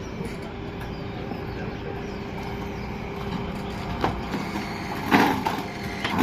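A steady engine hum, with a single sharp knock about four seconds in and louder knocking and clatter near the end.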